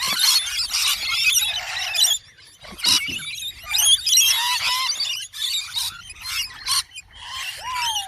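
A flock of birds chirping and squawking over one another in a dense, high-pitched chatter, broken by brief pauses, with a single falling whistle near the end.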